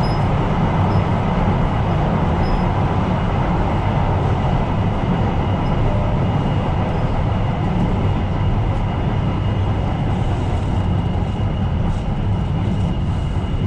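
Tyne & Wear Metro train running steadily between stations, heard from the driver's cab: a continuous rumble of wheels on rail and traction equipment, with a faint steady high whine above it.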